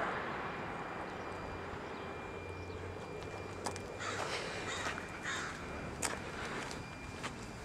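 Bird calls, three short ones close together a little past the middle, over a low steady hum, with a few sharp clicks.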